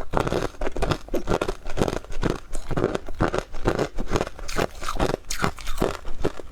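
Close-miked chewing of powdery freezer frost: a steady run of soft, crisp crunches, about three a second.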